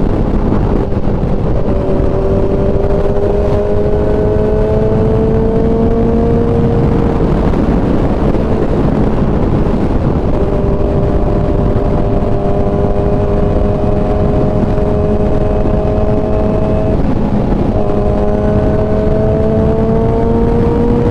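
Kawasaki ZX-10R's inline-four engine on the move, its pitch climbing slowly in each gear with brief breaks at gear changes, about a second and a half in and again near the end. Heavy wind rush over the microphone runs under it and takes over for a few seconds in the middle.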